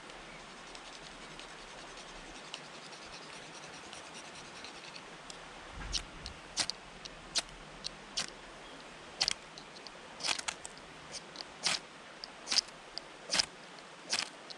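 Campfire crackling: irregular sharp pops and crackles over a steady hiss, starting about six seconds in and coming more often toward the end.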